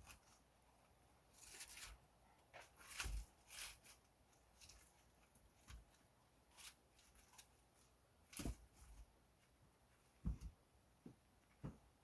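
Faint, scattered knocks, thumps and rustles of things being handled, irregular and a second or so apart, in near silence.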